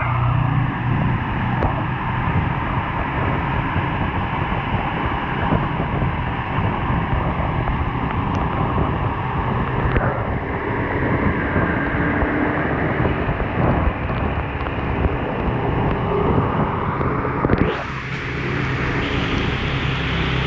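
Steady rush of wind and road noise from a vehicle on the move in the rain, with a low, even engine hum underneath. Near the end the noise shifts suddenly and thins out.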